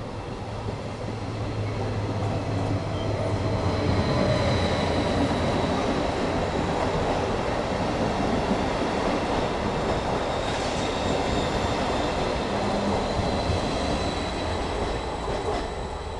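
Passenger coaches of a departing regional train rolling past, the steady rumble and clatter of their wheels on the rails growing over the first few seconds as the train picks up speed. The sound drops away near the end as the last coach goes by.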